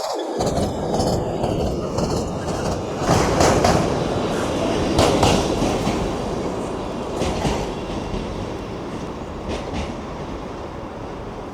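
A train running through the station, its wheels clattering over the rail joints in separate clacks, the sound slowly dying away.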